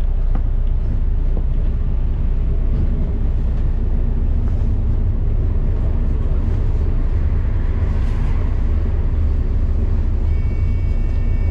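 Double-decker bus running, heard from on board: a steady low engine and road rumble. Near the end a set of steady high-pitched tones comes in.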